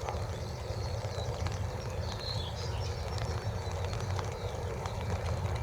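Steady low rumble of the open air by the airfield, with faint bird chirps and scattered light ticks over it.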